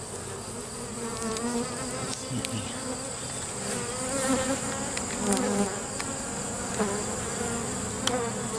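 Swarm of honey bees buzzing around an open hive, many overlapping wavering hums rising and falling in pitch.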